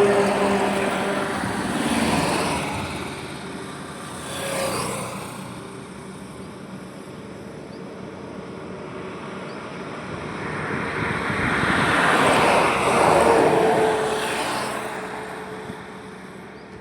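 Highway traffic: vehicles passing one after another, each swelling and fading. Short passes come about 2 and 4.5 seconds in, and a longer, louder pass builds from about 10 seconds, peaking around 13 seconds with an engine tone that drops in pitch as it goes by.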